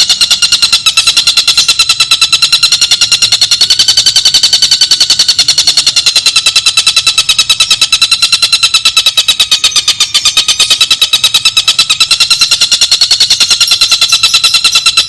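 Tengkek buto bird call: a fast, even rattling trill of many notes a second, held without a break and wavering slightly in pitch.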